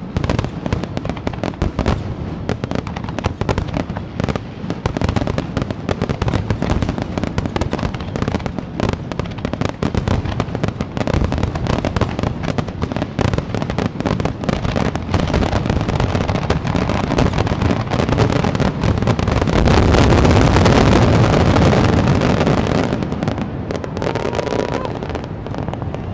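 Aerial fireworks bursting in a rapid, continuous barrage of overlapping bangs and crackles. It builds to its densest and loudest a little past two-thirds of the way in, then eases off near the end.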